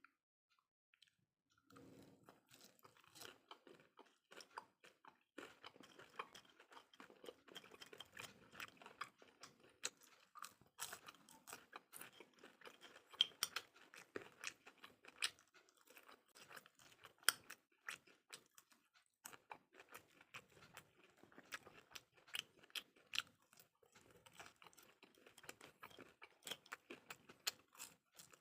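Close-up chewing and crunching of fried snacks, fried fish rolls and fried potatoes, with many sharp crisp crunches between softer chewing; it starts about two seconds in.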